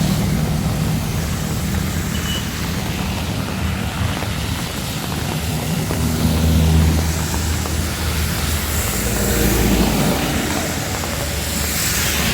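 Heavy rain falling steadily, with motor vehicles running and passing on a wet street; their low engine hum swells about six seconds in and again near ten seconds.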